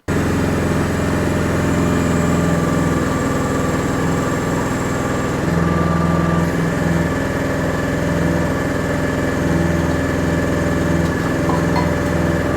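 Chinese micro excavator's engine running steadily, its note swelling and easing at intervals as the hydraulics work the bucket.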